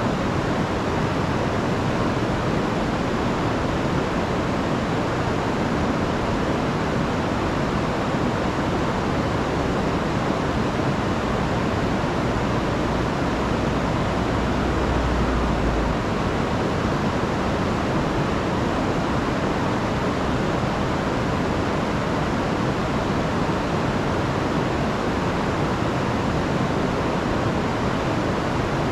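River swollen by a week of rain, rushing over waterfalls in a steady, even roar of water, with a low rumble swelling briefly about halfway through.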